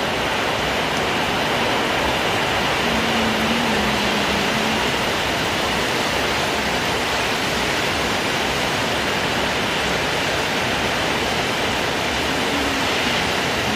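Heavy rain pouring steadily, a dense unbroken hiss of falling water.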